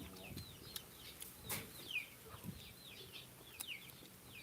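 Faint bird chirps: short, high notes, each sliding down in pitch, repeated about once or twice a second, with a few sharp clicks in between.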